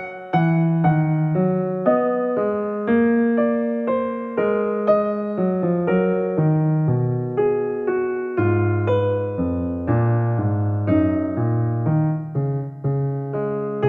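Soft background music: a piano-like keyboard playing a steady run of gently struck notes, each note fading after it sounds.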